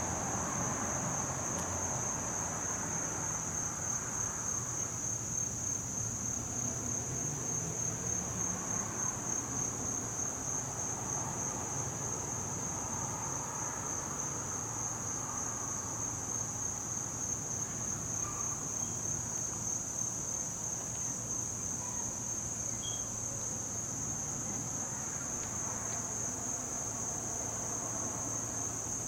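Crickets trilling in a steady, high-pitched chorus that never stops, with a faint low hum underneath.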